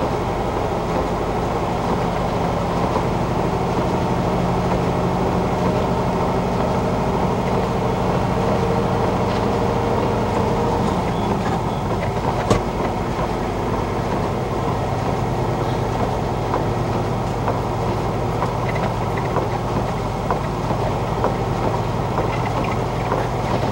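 Semi truck's diesel engine running steadily under way, heard from inside the cab along with road noise. The engine tone shifts slightly about halfway through, and there is a single sharp click a little after that.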